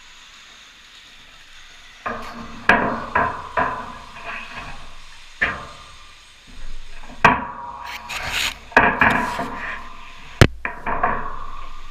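Irregular knocks, clatters and rattles, starting about two seconds in, with one sharp knock near the end.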